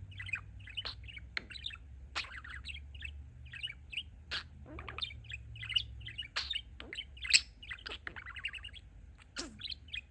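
Budgerigar (pet parakeet) warbling: a continuous run of quick chirps, clicks and chatter, with a few sharper, louder notes, the loudest a little past halfway.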